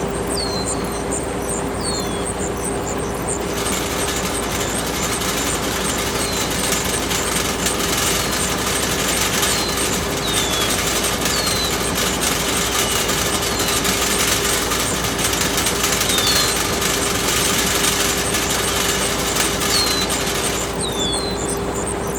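A small motor-driven machine running with a dense, rattling noise that starts about three and a half seconds in and cuts off near the end. Short falling chirps repeat throughout.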